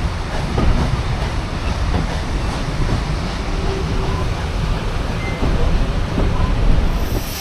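Railway carriage running along the line, heard from inside the carriage: a steady rumble of wheels on rail with faint repeated clicks.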